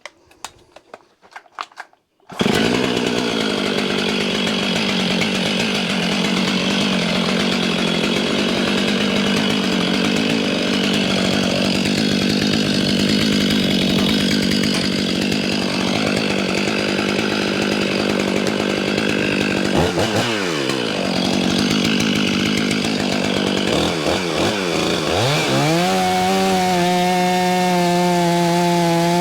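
Chainsaw cutting through a maple log at full throttle, coming in suddenly a couple of seconds in. The engine note dips and swings back up about twenty seconds in and again near the end, then settles into a steady high-revving whine.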